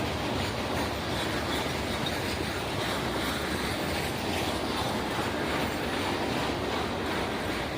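A train rolling past on the track, with a steady noise of wheels on the rails.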